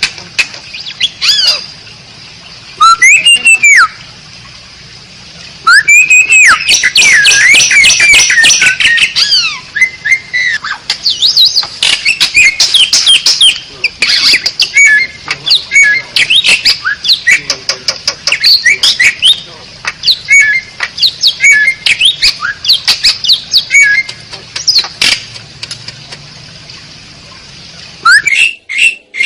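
Asian pied starling (jalak suren) singing a loud, varied song of rapid gliding whistles mixed with harsh chatters and sharp clicks, in bursts with short pauses between them.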